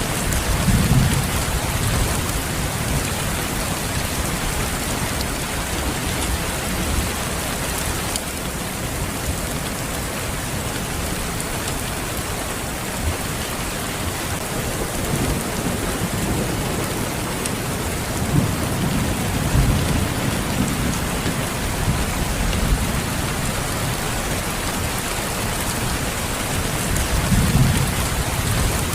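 Steady rain falling, with low rumbles of thunder about a second in, again around the middle, and near the end.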